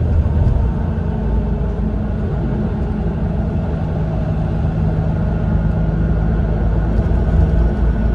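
Mitsubishi Fuso Aero Ace coach cruising, heard inside the passenger cabin: a steady low rumble of diesel engine and road noise, with an engine tone holding a steady pitch.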